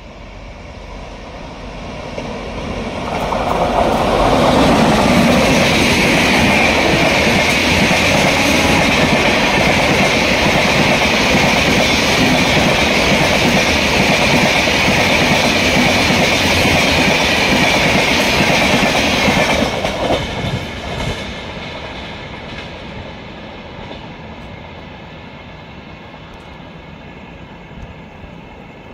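Passenger express train, the 12080 Hubballi–Bengaluru Jan Shatabdi, running through at full speed: the noise of the train builds over the first few seconds and stays loud, with a steady high ringing tone, for about fifteen seconds, then drops off about twenty seconds in and fades away.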